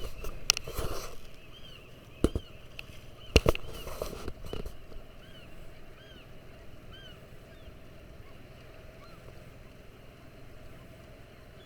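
Many short, repeated bird calls over a steady low background, with a few sharp knocks in the first half.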